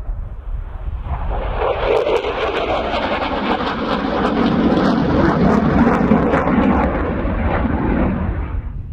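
USAF Thunderbirds F-16 fighter jets flying past. The jet noise swells about a second in, crackles, and drops in pitch as they go by, then fades near the end.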